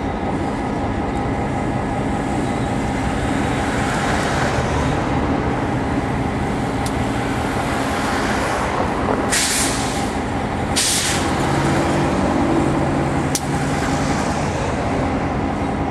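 Diesel locomotive engine running steadily as a train moves, with two short, sharp hisses of air from the brake system around the middle.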